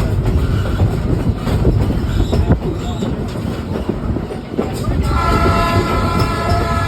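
A train rumbling and clattering over the rails. About five seconds in, the locomotive starts a long, steady horn blast that is still going at the end.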